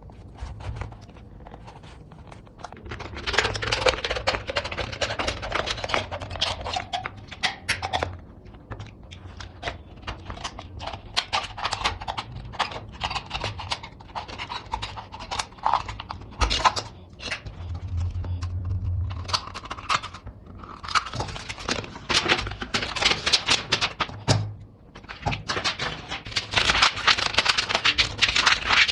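Irregular scraping and rustling broken by many sharp clicks and taps: hand work on thin aluminium can pieces.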